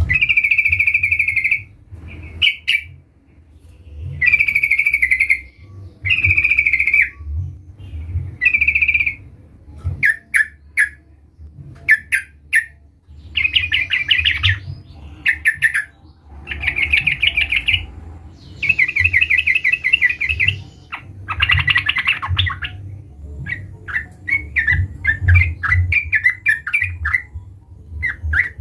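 Yellow-vented bulbul (trucukan) singing in a lively, chattering way: repeated bubbly phrases about a second long, longer runs in the middle and quicker short notes near the end. A steady low rumble lies underneath.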